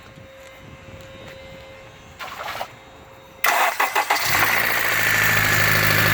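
Honda K20Z3 inline-four engine cranked by the starter about three and a half seconds in. It catches within a second and settles into a steady idle. The engine has a rod knock.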